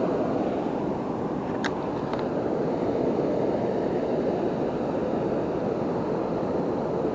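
Waterfall and river water rushing in a steady, even roar.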